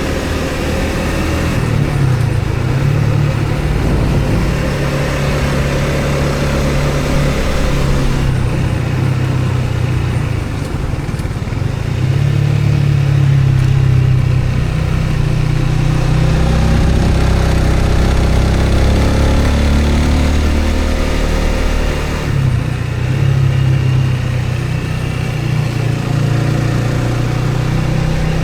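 Engine of a moving motor vehicle running, its pitch and loudness rising and falling with changes in speed, over steady road and wind noise.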